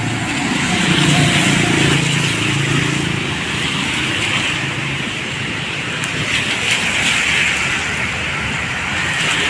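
A vehicle on the move in the rain: steady rushing noise of wind and road, with an engine hum in the first few seconds.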